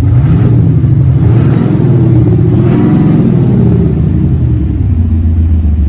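Audi A6 3.0 TDI diesel with a retrofitted Active Sound exhaust-sound generator in Dynamic mode, revved once. The note rises right away, holds with a burbling sound for a few seconds, then drops back to idle near the end. The rise is kept modest by the car's rev limiter at standstill.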